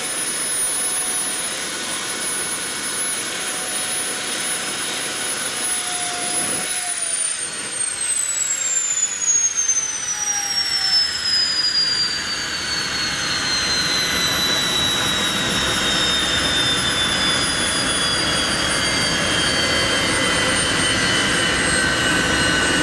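Small model jet turbine running, a loud rush of exhaust under a high-pitched whine. About six seconds in, the whine starts falling steadily in pitch and keeps dropping through the rest, as the turbine's speed falls.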